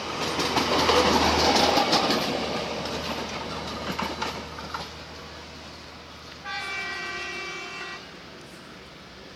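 EM 120 track recording car running past, its wheels clicking over the rail joints, loudest in the first couple of seconds and fading, over a low steady engine hum. About six and a half seconds in, a train horn sounds once for about a second and a half.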